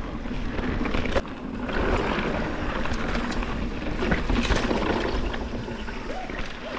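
Wind rushing over the camera microphone and mountain bike tyres rolling over a dirt trail while coasting downhill without braking, with rattles and a sharp knock about a second in.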